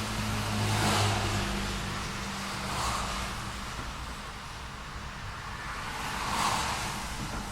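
Street traffic: cars passing one after another, their tyre hiss swelling and fading three times. A low engine hum sounds in the first second or so.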